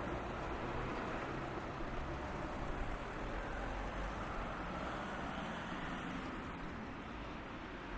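Steady low rumble of passing road traffic, with no single sharp event.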